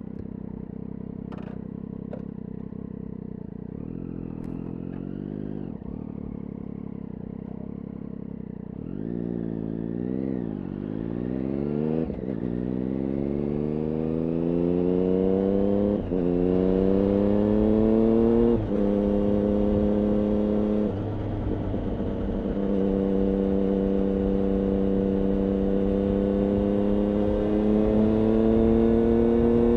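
Triumph Daytona 675's inline three-cylinder engine through an IXIL aftermarket exhaust, running at a low steady rumble, then revving up and down and accelerating through the gears. Its pitch climbs, drops sharply at two gear changes in the middle, holds level a while, and climbs again, getting louder toward the end.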